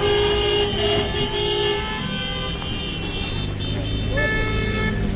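Horns sounding in long steady blasts, a lower one in the first couple of seconds and a higher one coming and going near the end, over continuous crowd and street noise.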